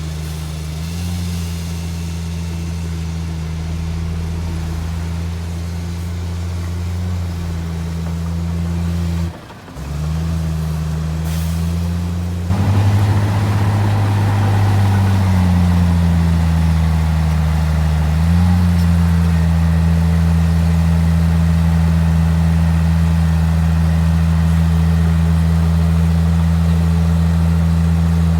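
Heavy diesel engine of an earthmoving machine running steadily, its pitch dipping and rising as the load and throttle change. It drops out briefly about nine seconds in, then comes back louder from about twelve seconds.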